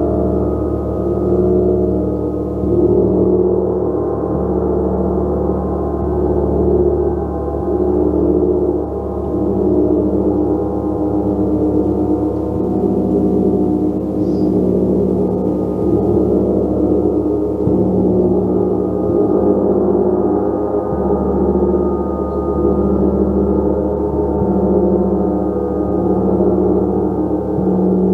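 A gong played continuously in a sustained wash of many overlapping, ringing tones. The sound is deep and full, with little high shimmer, and swells and ebbs gently without a break.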